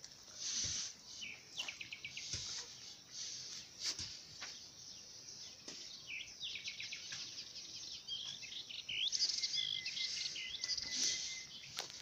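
Small birds chirping and twittering, with quick trills of rapidly repeated notes and a held high note near the end, over a faint high hiss and a few sharp clicks.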